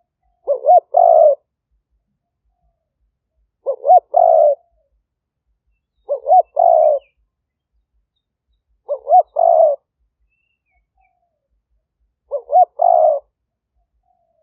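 Spotted dove cooing: a caged decoy bird gives five phrases, each two short notes followed by a longer coo, about every three seconds.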